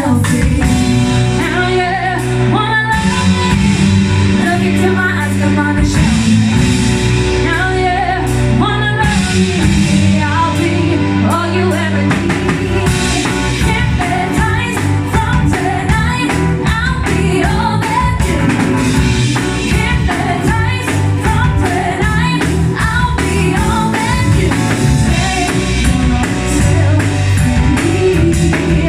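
Live band playing a song: a woman singing lead over drum kit and band, with a strong bass line.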